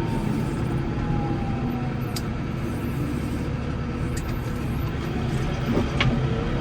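Case 115U tractor engine running steadily under load while plowing snow, with a few brief clicks, the sharpest about six seconds in.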